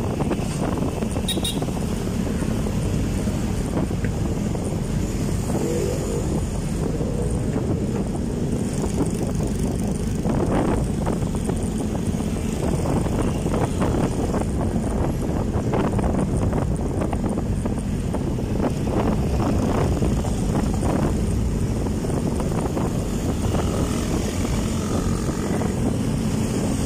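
Steady wind rush buffeting the microphone, with road rumble and small rattles from a moving bike.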